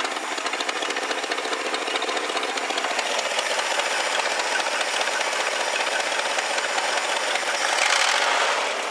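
1969 Lincoln Mark III's 460 V8 idling at around 600–650 rpm while cold, heard close with a fast, even ticking clatter. The idle is being set up a little.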